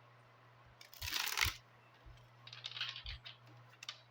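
Tarot cards being shuffled and handled: a short papery swish about a second in, then a run of soft clicks and rustles.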